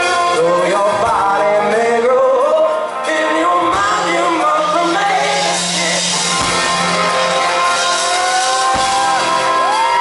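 Live rock band playing, with the lead singer's voice bending through a melodic line, holding one long note near the end and then sliding up.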